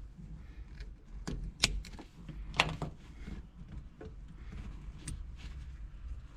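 Small hard parts clicking and clinking as they are handled and searched through: a handful of separate sharp knocks, the loudest just under three seconds in.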